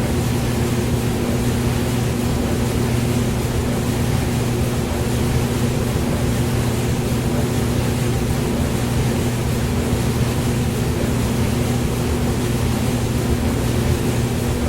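Hair dryer running steadily: a constant rush of blown air over a low motor hum.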